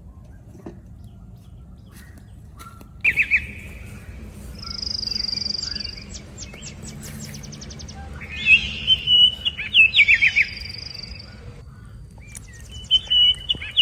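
Birds singing: several separate phrases of high chirps and quick trills. One is a held high whistle followed by a run of rapid ticks, about five seconds in, and there is a busier stretch of calls around nine to ten seconds in.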